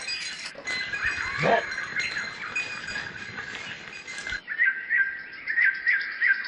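Small birds chirping: a run of short repeated chirps, about four a second in the second half, with one call that drops sharply in pitch about a second and a half in.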